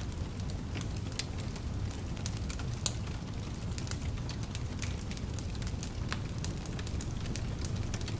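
Wood fire burning in a fireplace: a steady low rumble of flame with frequent, irregular sharp crackles and pops, one louder pop about three seconds in.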